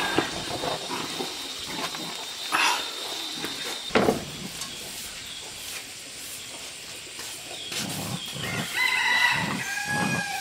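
Rooster crowing near the end, with a few knocks and thumps earlier.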